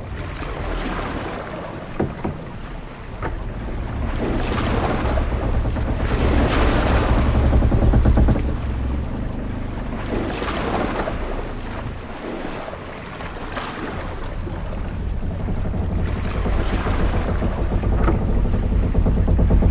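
Ship-at-sea ambience: a steady deep wind rumble with waves swelling and washing against the hull every few seconds, and a few brief sharp knocks from the ship.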